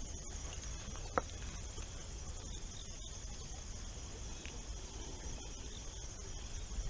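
Insects chirring in a steady, high chorus over a low rumble, with a single sharp click about a second in.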